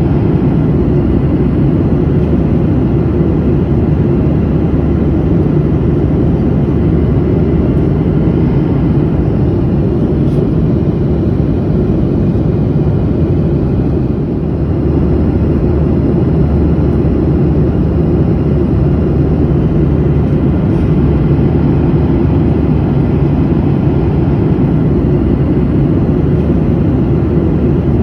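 Airliner in flight heard from inside the cabin: a steady, even rumble of engine and airflow noise, heaviest in the low range, with a slight brief dip in loudness about halfway through.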